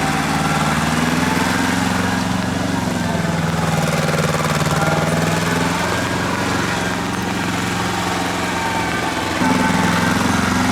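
Tractor engine running steadily, its pitch wavering slightly, with a sudden step up in loudness about nine seconds in.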